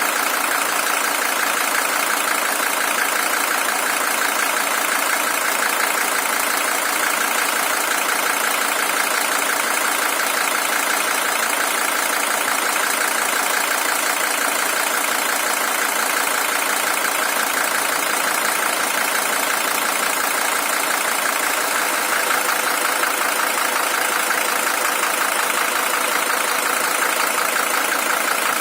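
Mercedes-Benz W123 300TD's OM617 five-cylinder diesel engine idling steadily, the original engine at 620,000 km.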